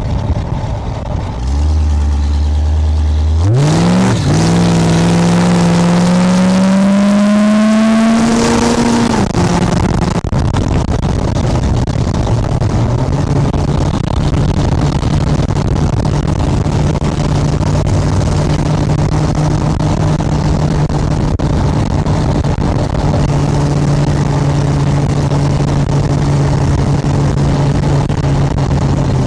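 V8 engine of a chopper trike pulling hard, its pitch rising steadily for several seconds. About nine seconds in it eases off and settles into a steady cruise.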